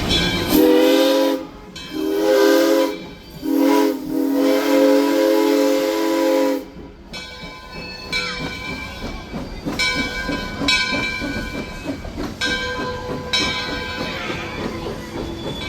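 Steam locomotive #18, a 2-8-0, blowing its whistle in four blasts, long, short, short and long: the grade-crossing signal. After that the train runs on with a steady rhythmic chuff and hiss.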